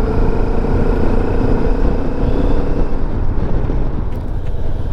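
Motorcycle riding at road speed: a steady engine drone under heavy wind rush on the microphone, with the engine's tone fading slightly about three seconds in.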